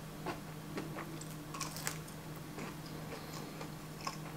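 Close-miked chewing of bacon: soft, irregular wet clicks and small crunches from a person eating with mouth closed, over a faint steady low hum.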